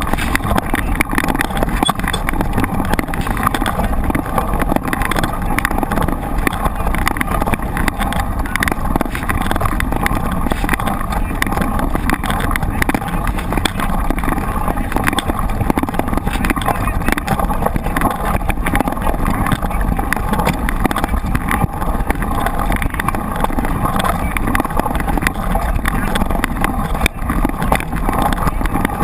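Steady rushing noise, heaviest in the low end, with constant small rattles and clicks: a mountain bike ridden over rough ground, with tyres and wind noise on a bike-mounted camera.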